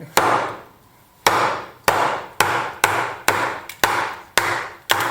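Repeated sharp strikes of a tool into green wood resting on a wooden workbench top, about two a second, each with a short ringing tail from the bench. This is splitting and hewing a bowl blank.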